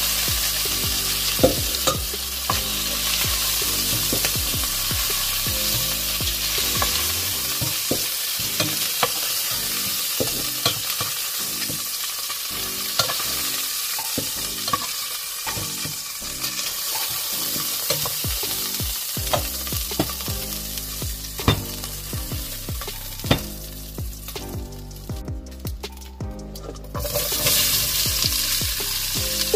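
Chicken thighs sizzling as they brown in oil in a pot, with sharp clicks of metal tongs against the pot as the pieces are turned and lifted out. The sizzle dies down a few seconds before the end, then jumps back loud as chopped peppers and onion go into the hot oil.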